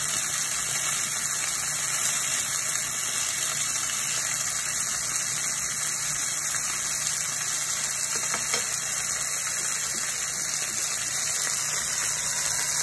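Shrimp sizzling in oil in a frying pan, a steady hiss, with a steady low hum underneath and a few faint taps a little past the middle.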